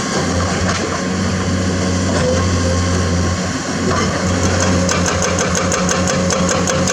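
Komatsu hydraulic excavator's diesel engine running steadily at low revs. About two-thirds of the way in, a rapid, even ticking of about six clicks a second starts over it.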